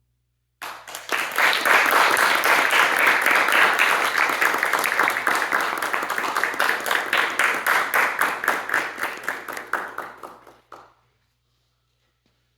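Audience applauding, beginning about half a second in, thinning out and dying away about ten seconds later.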